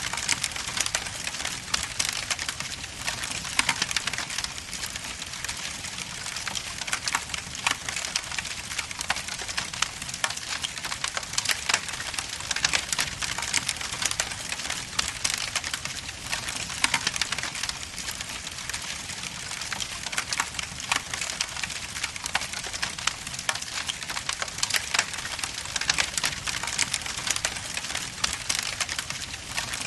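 Wood logs burning in a fireplace, crackling steadily with dense, irregular pops and snaps over a soft hiss.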